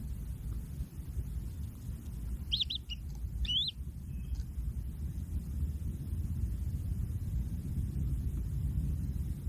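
A few short, high, curving bird chirps between about two and a half and four seconds in, over a steady low rumble.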